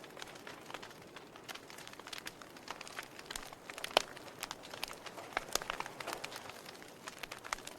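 Wood fire burning in a fireplace, crackling with irregular sharp pops and snaps over a soft steady hiss; the loudest pop comes about four seconds in.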